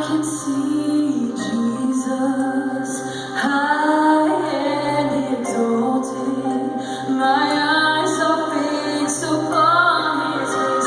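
A woman singing a melody over a steady instrumental accompaniment with a sustained low note.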